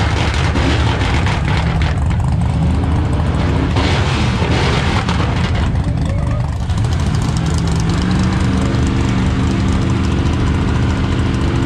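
Loud vehicle engine noise with a heavy low rumble. From about eight seconds in, one engine's note climbs slowly and steadily in pitch as it accelerates.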